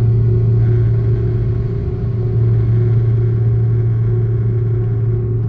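Steady engine drone of an Airbus A330-300's Pratt & Whitney PW4000 turbofans heard inside the passenger cabin: a constant low hum with a steady higher tone over it.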